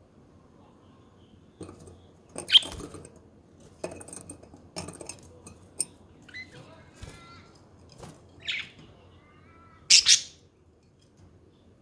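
Pet budgerigars chirping and warbling in short, scattered calls, with sharp ticks between them; the loudest are a shrill call about two and a half seconds in and two quick calls near the end.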